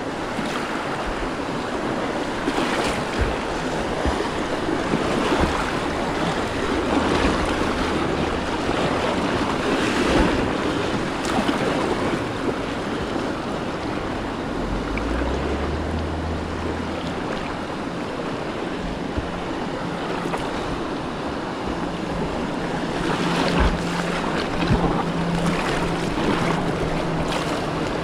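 Whitewater river rushing steadily, with irregular splashes from kayak paddle strokes and wind buffeting the microphone.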